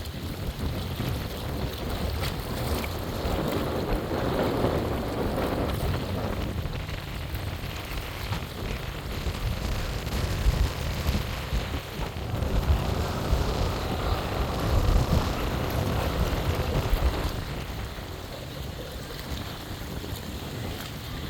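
Wind rumbling on the microphone over a steady wash of water, swelling louder twice, a few seconds in and again past the middle.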